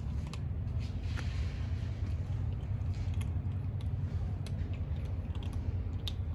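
Kittens eating, with irregular small clicks and smacks of chewing over a steady low rumble.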